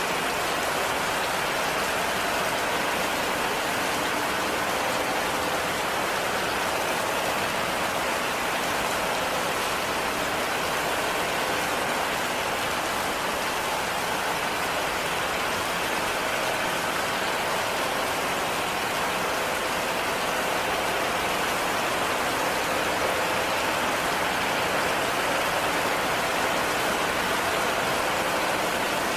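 Heavy rain falling steadily on a cabin, an even unbroken patter.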